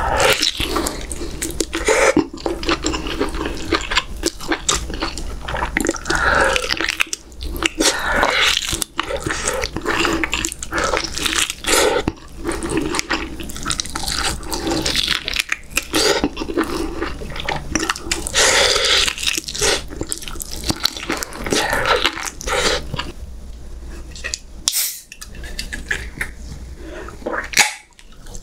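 Close-miked wet chewing and lip-smacking of a person eating beef short rib meat off the bone, a dense run of moist clicks and smacks. It thins out near the end, where there is one sharp click.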